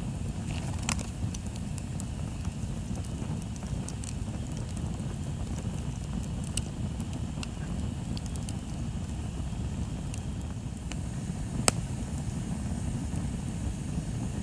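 Bonfire burning with a steady low rumble and scattered crackles and pops of the wood; one sharp pop stands out about two thirds of the way in.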